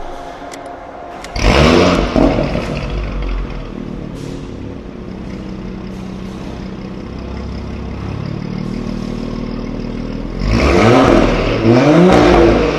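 Porsche Cayenne 3.0T's turbocharged V6 through an aftermarket valved exhaust. The engine is revved sharply about a second and a half in and falls back to a steady idle. It is then revved twice more near the end, the pitch rising and dropping each time.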